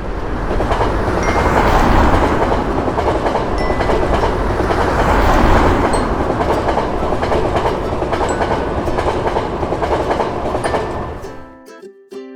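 Train passing through: a steady roar of wheels on rails that starts suddenly, holds, then fades out about eleven seconds in, as chiming music comes back in.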